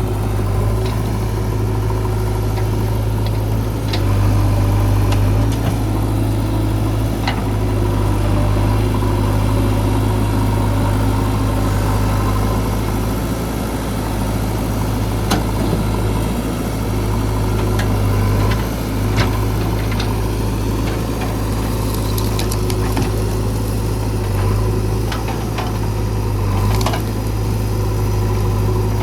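JCB 3DX backhoe loader's diesel engine running steadily, with scattered sharp clicks and knocks over the drone.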